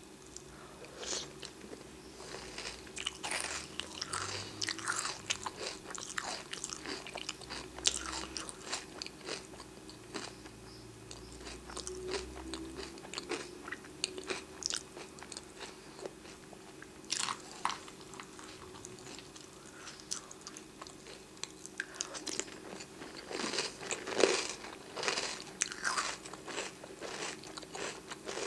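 Close-mic chewing of crunchy oatmeal square cereal with milk: irregular crunches coming in clusters, densest in a run a few seconds in and another near the end.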